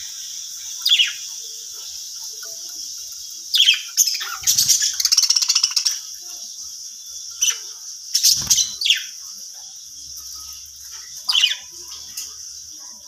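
Budgies chirping in short, sharp calls, with a longer rapid chattering warble about four seconds in. A steady high-pitched hiss runs underneath.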